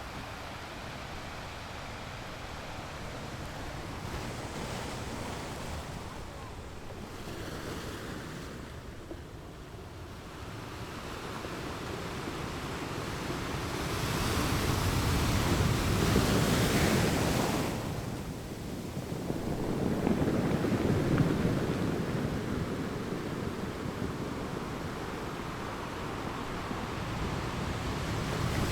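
Ocean surf washing onto a beach, a continuous wash that swells and recedes. Two larger waves break a little past the middle, the first dropping away sharply before the second builds.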